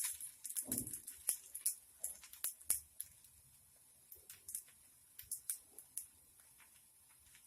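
Paddu frying in oil in a paniyaram pan: scattered crackles and pops of sizzling oil, busiest in the first few seconds, then sparse. One duller knock about a second in, likely a utensil touching the pan.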